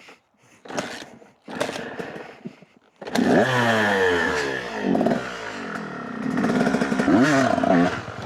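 Dirt bike engine turning over in two short tries, then firing about three seconds in and being revved up and down several times.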